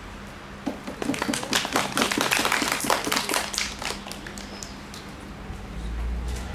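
A small audience clapping briefly, starting under a second in, thickest for about three seconds, then thinning out and stopping. This applause follows the end of a speech.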